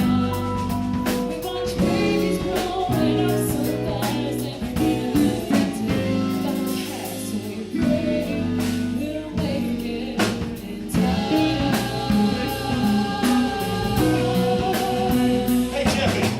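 Live funk band playing, with drum kit, bass and guitar under sung vocals.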